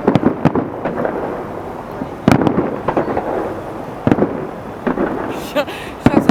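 Fireworks salute: shells bursting in irregular, repeated bangs over a rumbling, echoing background. The loudest bang comes about two seconds in and another just before the end, with a brief high crackle between them.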